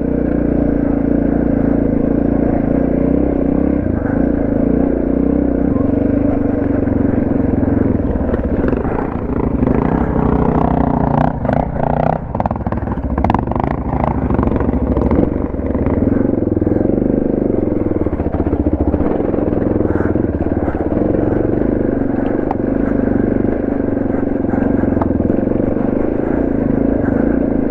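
Suzuki DR650's single-cylinder four-stroke engine running steadily as the bike rides a dirt trail, heard from the rider's helmet. Short knocks and rattles come in around the middle.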